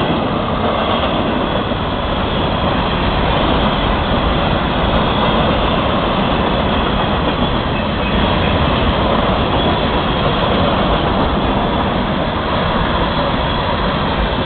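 A freight train's cars rolling past on the Florida East Coast Railway: a loud, steady noise of steel wheels on the rails.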